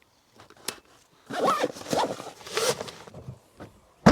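A zipper being pulled open or shut in several rasping strokes, followed by a single loud thump near the end.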